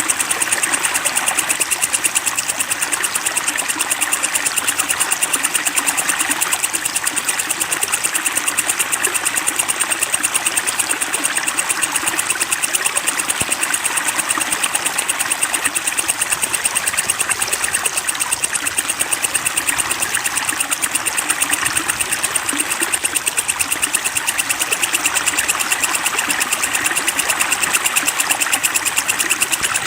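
A songbird singing a rapid, unbroken trill that pulses many times a second, with a steady hiss of flowing water beneath it.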